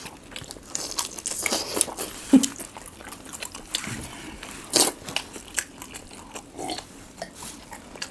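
Close-up eating sounds of prawns and rice being bitten and chewed, with irregular crunches and clicks; the sharpest comes about two and a half seconds in, another strong one near five seconds.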